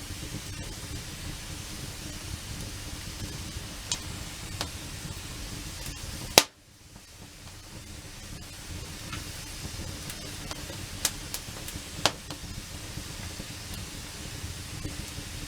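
Wood campfire burning: a steady hiss with scattered sharp crackles and pops, the loudest pop about six seconds in.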